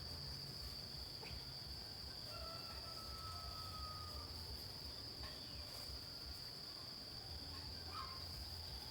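A steady, high, continuous insect drone from crickets or cicadas, faint. A thin, faint, held tone of about two seconds comes near the middle, with a few light ticks.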